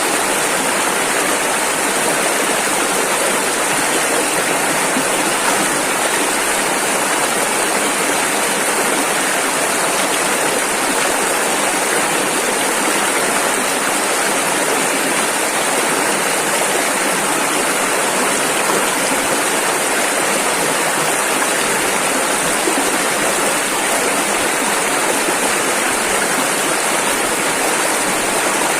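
Rushing river water, a steady, even roar of rapids with no breaks or changes.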